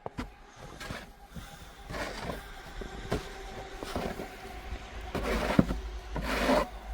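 Snow shovel scraping and scooping deep snow, several strokes with sharp knocks of the blade, over a low wind rumble on the microphone.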